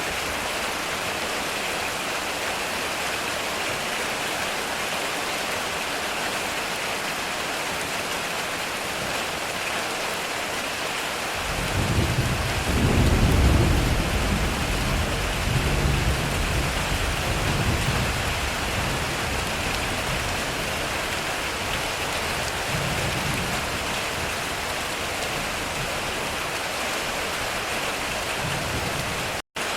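Heavy rain falling steadily on a metal roof. About a third of the way in, thunder rolls in as a deep rumble that swells for a couple of seconds and then rumbles on in waves before fading back under the rain. Near the end the sound cuts out for a split second.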